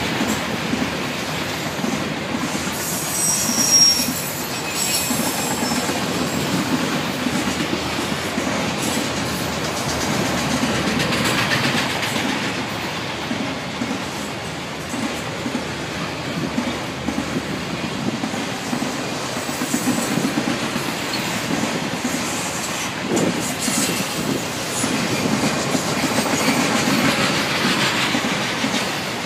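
Enclosed autorack freight cars rolling past, with a steady rumble and clatter of steel wheels on the rail. About three to four seconds in, a wheel gives a brief high squeal.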